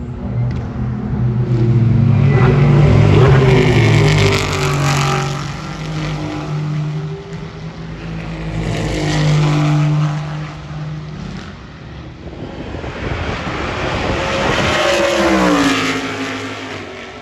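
Race cars going past one after another at speed, three pass-bys in all, each engine note swelling up and then dropping in pitch as the car goes by.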